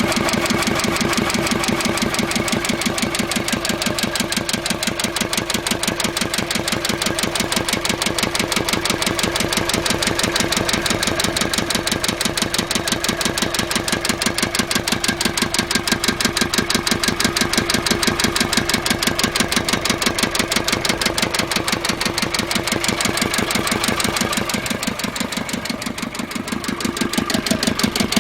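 Isuzu 4JB1T four-cylinder turbodiesel running at idle with a strong, rapid, regular knock, a fault that came on together with loss of power and heavy white smoke from the oil dipstick hole. Its loudness dips briefly near the end, then comes back.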